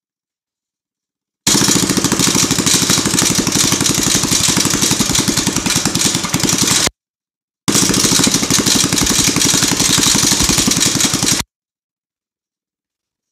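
Predator 212 single-cylinder four-stroke engine on a mini bike, running loud through a custom exhaust pipe as a quick, even stream of firing pulses. It runs in two stretches of about five and four seconds. Each ends with the sound cutting off abruptly to dead silence.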